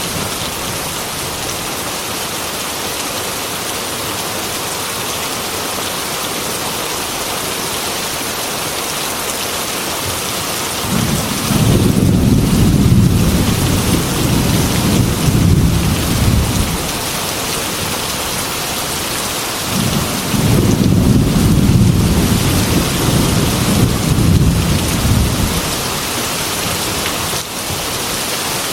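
Heavy rain falling steadily, with two long rolls of thunder rumbling through it, one a little under halfway through and another a few seconds later.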